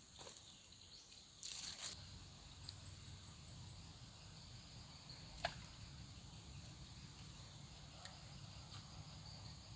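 Faint forest ambience of insects droning steadily at a high pitch, with a short chirping trill, a brief rustle about a second and a half in and a single sharp click midway.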